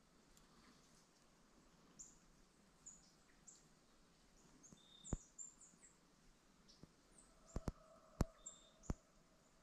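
Faint, high chirps and short whistled notes of small birds over near silence, with a few sharp clicks in the second half.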